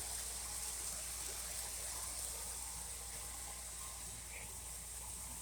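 O gauge model steam turbine locomotive running with its passenger cars on three-rail track: a steady, even rolling whirr with a constant low hum underneath.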